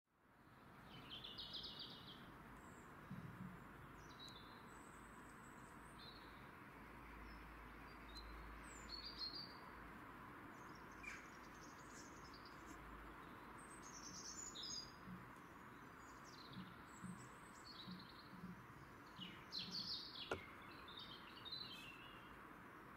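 Small wild birds chirping and calling on and off, short high notes scattered throughout, over a faint steady hiss.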